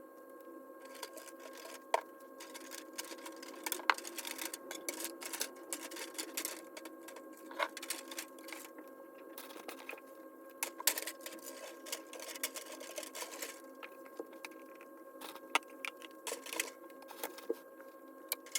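Irregular clicks, taps and light rattling of small objects being handled and set down on a table, over a steady hum.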